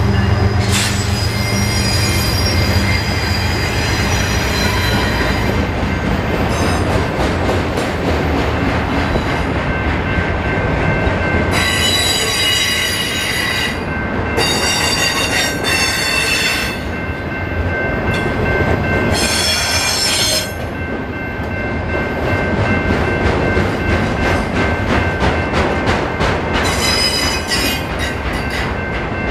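Freight train of autorack cars rolling past close by: a steady clatter of wheels on rail, with the wheels squealing high-pitched several times, each squeal lasting a second or two. In the first few seconds the diesel engine of the trailing GE Dash 9 locomotive drones as it passes.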